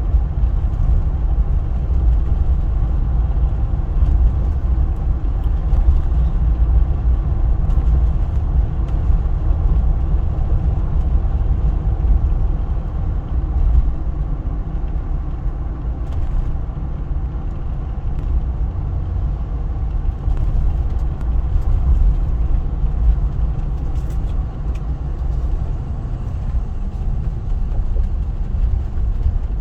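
Steady low rumble of a 2021 Jeep Wrangler EcoDiesel's 3.0-litre V6 diesel and its tyres on the road, heard inside the cabin while cruising at steady speed. The exhaust particulate filter is regenerating, which is why it is being kept driving.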